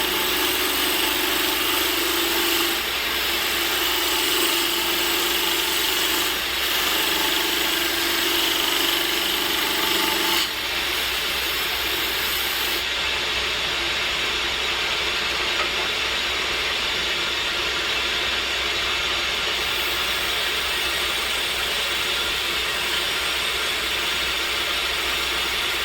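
Power woodworking machine running steadily while cutting teak wood, with a humming tone that wavers in the first ten seconds; the sound changes about ten seconds in.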